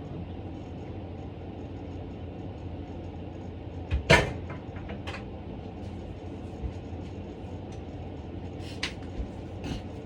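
Kitchen handling noises over a steady low hum: a sharp knock about four seconds in, another click a second later, and a few faint clicks near the end.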